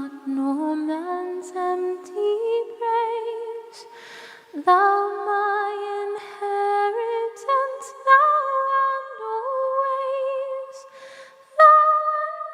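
A cappella hymn singing, voice only with no instruments: long held notes with a slight waver, stepping up and down between pitches, with short breaths between phrases.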